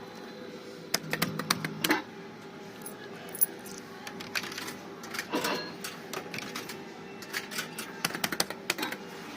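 Clusters of rapid mechanical clicks and rattles at a coin-operated fruit machine, in three bursts, over a steady electronic hum.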